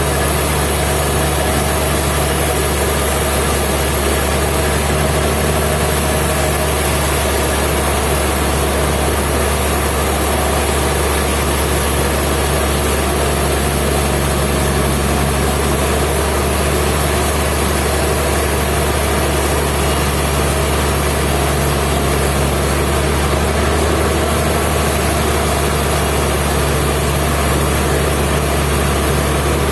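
Sawmill machinery running steadily, a constant loud engine-like hum with no breaks or changes.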